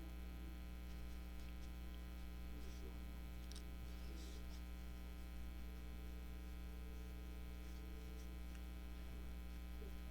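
Steady electrical mains hum, with a few faint, brief rustles about three to four seconds in.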